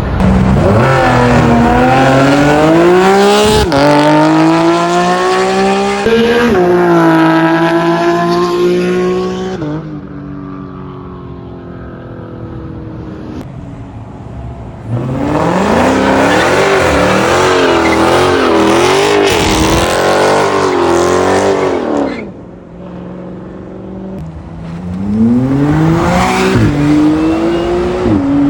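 Performance car engines at full throttle. A car launches hard, its revs climbing steeply through two quick upshifts. After a quieter spell, a loud run of rapidly rising and falling revs follows, and near the end another car accelerates hard.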